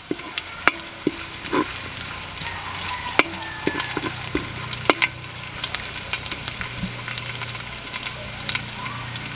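Garlic and ginger sizzling in hot oil in a wok, stirred with a spatula that knocks and scrapes against the pan a few times.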